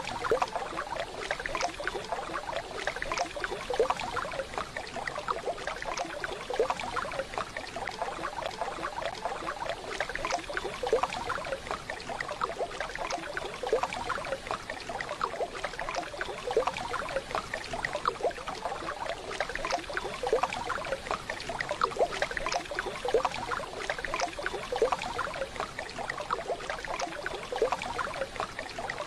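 Waterfall running steadily, water splashing and rushing.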